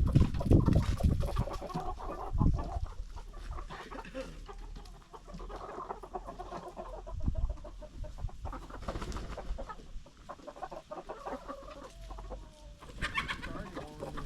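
Chickens clucking steadily, with loud low thumps and rumble in the first couple of seconds.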